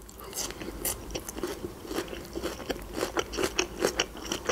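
Biting into and chewing raw red bell pepper, a continuous run of crisp crunches.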